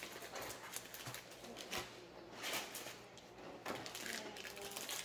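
Plastic snack packaging crinkling and crackling as a pack of cookies is handled and opened, with irregular clicks and a few longer rustles.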